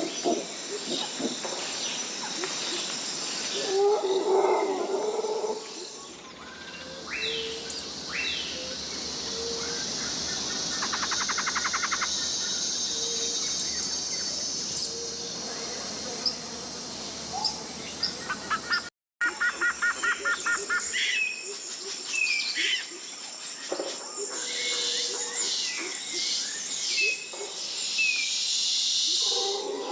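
Rainforest ambience: a steady high insect drone with many short bird chirps and calls, and low hooting calls in the first few seconds. The recording changes abruptly about six seconds in and cuts out for a moment about two-thirds of the way through.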